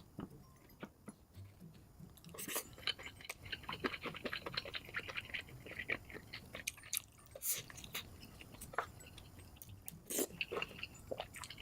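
Close-miked mukbang eating sounds sped up to double speed: rapid chewing and biting, a dense run of quick clicks and smacks in the middle, then fewer, louder smacks near the end.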